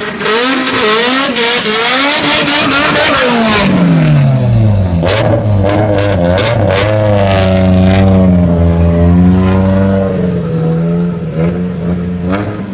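Turbocharged Renault 5's four-cylinder engine revving high, then dropping over about a second and holding a steady lower speed with a slightly wavering pitch. Sharp cracks cut in several times.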